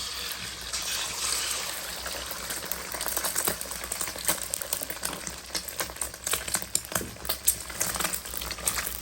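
An egg frying in hot oil in a pan: a steady sizzle, with sharp crackling spatters that grow more frequent from about three seconds in.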